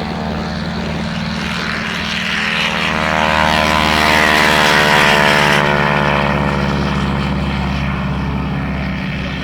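Propeller-driven piston-engine aircraft flying past. It grows louder to a peak about five seconds in, then its pitch drops as it moves away.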